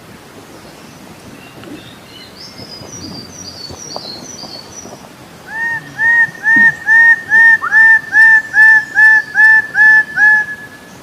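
Recorded bird song: faint high chirping, then about halfway through a loud bird call of about a dozen short, arched, honk-like notes repeated at a steady pace of roughly two a second, ending on a held note.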